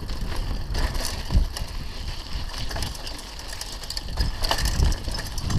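Mountain bike rolling over a rough dirt trail, with scattered knocks and rattles from the bike and gusts of low wind rumble on the microphone.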